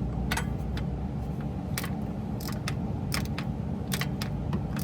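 Irregular metallic clicks and clinks of a socket wrench working a loose bolt, over a steady low hum.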